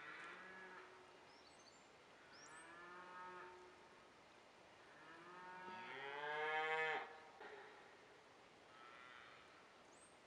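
Cattle mooing in the distance, four drawn-out calls; the longest and loudest swells and rises in pitch about six seconds in. A bird chirps briefly in between.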